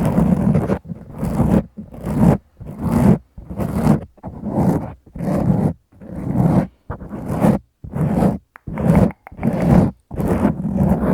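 Fingers scratching a foam windscreen fitted over a Tascam recorder's microphone, in rhythmic strokes a little more than one per second, each a dense close-up rasp with short breaks between.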